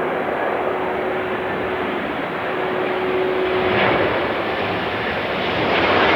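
Jet airliner landing close by: a steady rushing engine noise with a faint steady hum. It swells twice, about two thirds of the way in and again at the end.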